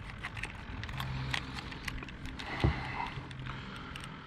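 Handling noise as a caught catfish is weighed: scattered small clicks and rattles of a hand-held scale and gear, over a faint low hum.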